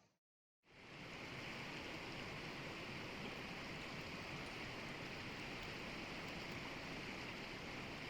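Steady rushing of a mountain stream flowing over stones, fading in after a brief gap of silence at the start.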